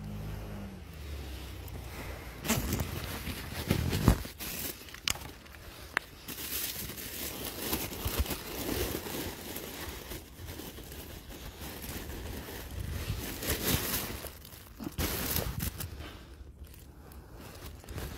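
Rustling and crinkling handling noise, with scattered sharp clicks and knocks, the loudest about four seconds in.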